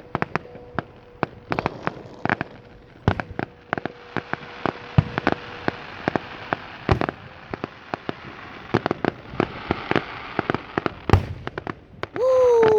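Fireworks going off: a rapid, irregular string of sharp bangs and crackling, with a few deep booms about five, seven and eleven seconds in. Near the end a man's loud falling 'woo' cheer is the loudest sound.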